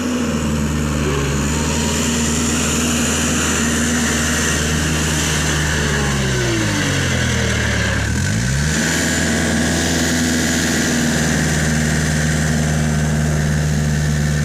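Kubota tractor engine running at steady, fairly high revs while the tractor is stuck in mud. About six seconds in, the engine note sags for a couple of seconds, then climbs quickly back to its earlier steady pitch.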